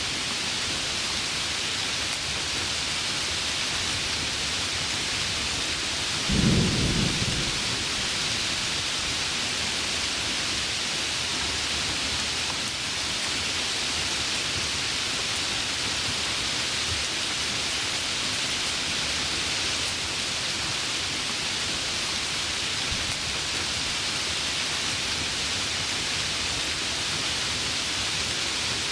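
Heavy rain falling steadily, with one short rumble of thunder about six seconds in.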